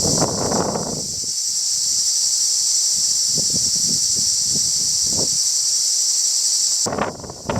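Loud, steady cicada chorus, a high shrill buzz, over gusts of wind buffeting the microphone. The buzz cuts off abruptly near the end, leaving only wind rumble.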